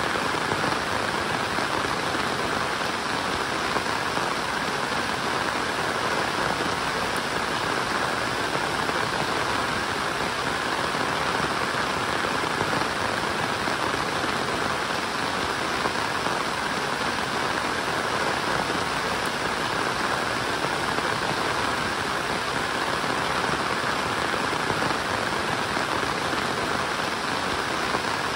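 Steady rain falling, an even hiss of drops with no single sound standing out.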